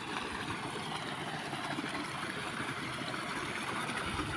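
Steady rushing of flowing water from a stream or irrigation channel, even and unbroken.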